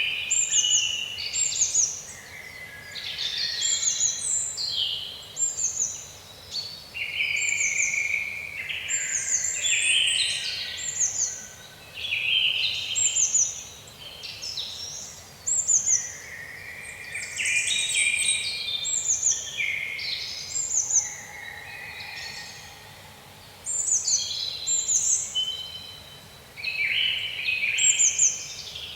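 Several songbirds singing together, with overlapping phrases of quick chirps and short falling notes, in bursts of a few seconds with brief pauses between.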